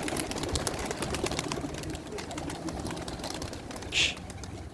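Many domestic pigeons cooing together in a loft, with a steady scatter of small clicks and a short high-pitched sound about four seconds in.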